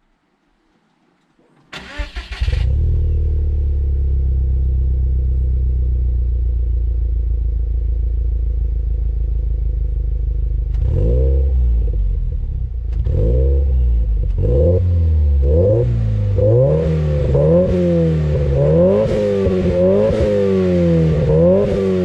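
Subaru Legacy BP5's EJ20 flat-four engine, through an HKS ES Premium exhaust, starting up about two seconds in and then idling steadily. From about halfway it is blipped repeatedly, the revs rising and falling about once a second.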